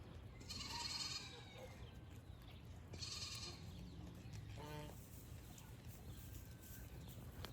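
Goats bleating: three separate calls over about five seconds, the last one shorter.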